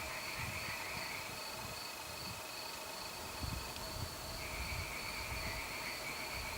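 Night insects such as crickets singing: a steady high trill goes on throughout, and a second, lower trill sounds at the start and comes back about two-thirds of the way in. Soft, irregular low rumbles run underneath.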